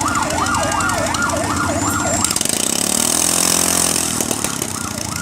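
A siren sweeping rapidly up and down in pitch, about two and a half times a second. It breaks off midway while an engine revs up, then starts again near the end.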